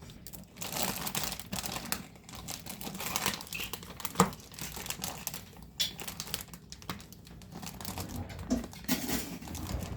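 Plastic lunch-meat packaging being handled, crinkling and rustling unevenly, with a sharp click about four seconds in.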